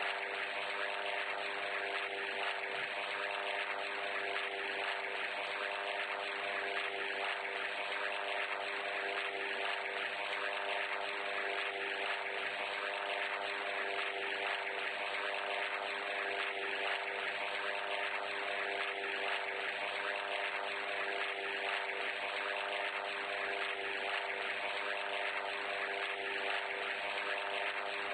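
A steady mechanical drone with several held tones over a dense hiss, unchanging throughout.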